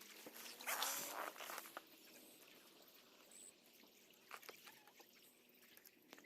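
A kayak paddle splashing once into lake water about a second in, then faint drips and small trickles of water.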